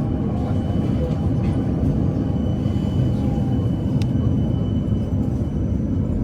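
Steady low rumble and hum heard inside the passenger cabin of a PKTS 71-931M Vityaz-M low-floor tram, with a faint thin steady tone above it.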